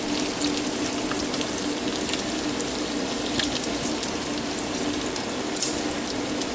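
Battered, bacon-wrapped candy bars deep-frying in a skillet of hot grease: steady sizzling with scattered pops and crackles.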